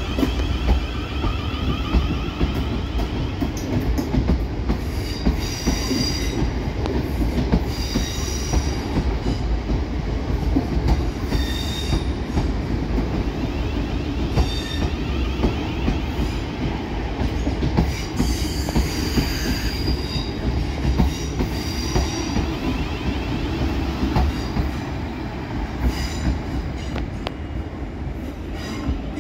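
Two coupled Siemens Desiro Class 450 electric multiple units pulling away and running past close by. A steady rumble of wheels on rail is broken by clicks over the rail joints and pointwork, with short high wheel squeals coming and going every few seconds. It fades slightly near the end as the train draws away.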